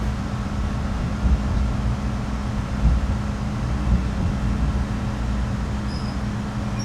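Interior noise of an MBTA Red Line subway car: a steady low rumble and hum with a constant low tone.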